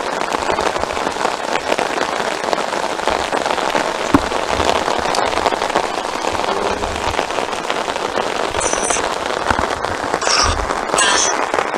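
Heavy rain pattering steadily on an umbrella overhead, with one sharp knock about four seconds in and a few brief higher sounds near the end.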